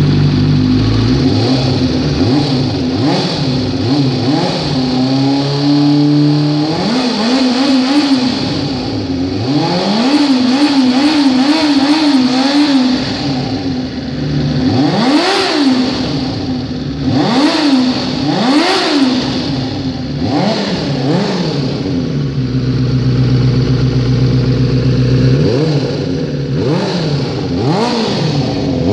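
Kawasaki Ninja motorcycle engine running at a steady idle, then revved over and over in short blips, its pitch rising and falling with each one, with a few seconds of steady running in between.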